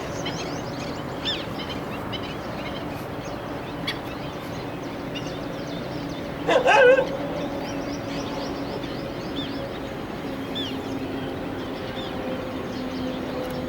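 Many birds calling, short high chirps scattered throughout, with one louder wavering call about six and a half seconds in. A faint steady hum underneath.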